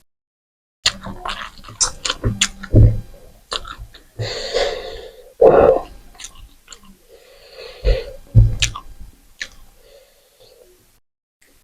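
Close-miked mouth sounds of a person eating rice, dal and chicken: wet chewing and lip-smacking clicks, with two longer breathy stretches about four and seven seconds in.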